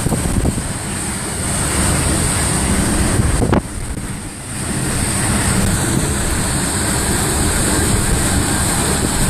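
Hurricane Michael's eyewall winds blasting and buffeting the microphone in a steady, loud rush, dropping briefly about three and a half seconds in before picking up again.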